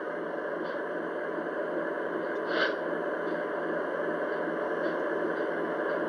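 Lionel Legacy ES44AC model locomotive's RailSounds 5 diesel sound, played through its onboard speaker: a steady engine rumble with a short hiss about two and a half seconds in.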